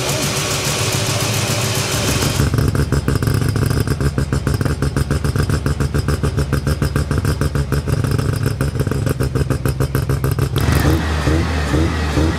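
A car engine running with a rapid, even pulsing, the sound changing abruptly twice.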